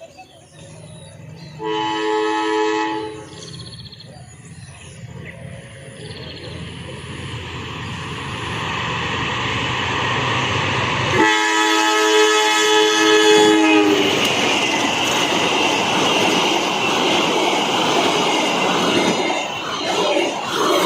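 Indonesian train sounding its two-tone horn twice, a short blast about two seconds in and a longer one about eleven seconds in, as it approaches and runs through the station at speed. The rumble and rush of the passing train build up and stay loud through the second half, over the hiss of heavy rain.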